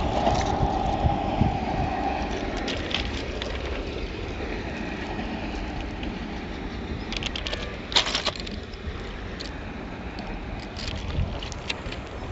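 A passing train rumbling away into the distance, fading over the first couple of seconds, then a steady background hiss with wind on the microphone. There are a few sharp clicks about eight seconds in.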